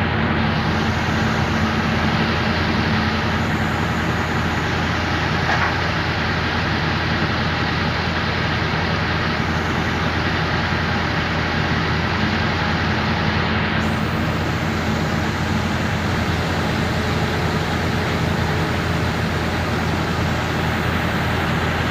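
An engine running steadily under load, with a constant low hum and no change in pace, as the machinery hauls a tugboat up onto the dock.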